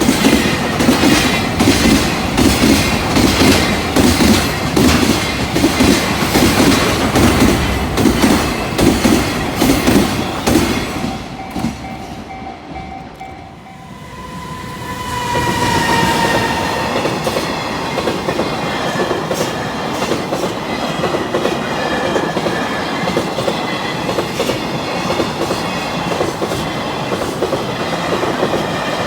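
Freight train rolling past, its wheels clattering rhythmically over rail joints. The clatter fades about twelve seconds in. It then rises again into a steadier rolling rumble with faint high squealing tones.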